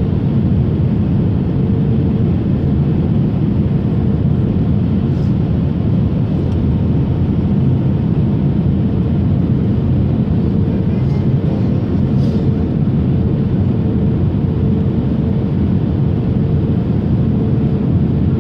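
Steady drone of a passenger aircraft heard inside the cabin, engine and airflow noise, with a constant thin hum running through it.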